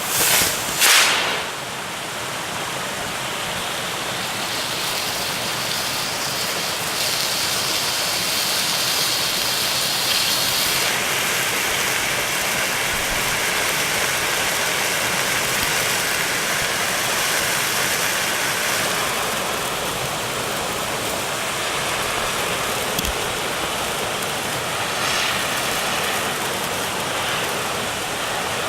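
Bonfire-night firework flares burning with a loud, steady hiss, after two short loud bursts in the first second.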